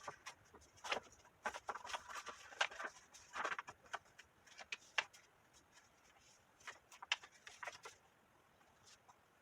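Cardstock being handled and folded: irregular rustles, light taps and crisp clicks of paper creasing, busier in the first few seconds and around the seventh, then dying away near the end.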